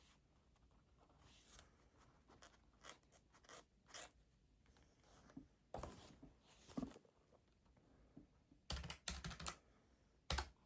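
Faint desk sounds of someone studying: scattered pen and paper scratches and rustles, with a quick run of sharp clicks near the end and one more just after.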